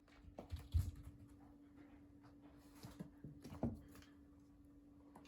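Rescue kittens moving about and playing: soft thumps and light clicks, loudest near the start and again about three and a half seconds in, over a faint steady hum.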